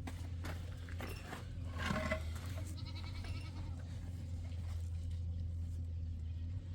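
A goat bleats once, briefly, about two seconds in, over a steady low hum.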